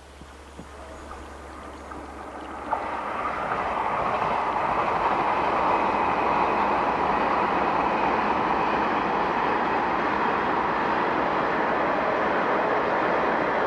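Nine-car JR 381-series electric train running past across open ground at a distance. Its steady rushing rail noise comes in about three seconds in, swells over the next two seconds and then holds evenly.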